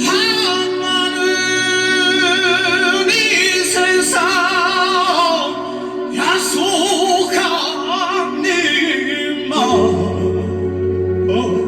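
Music: a slow sung melody with heavy, wavering vibrato over steady held accompaniment tones.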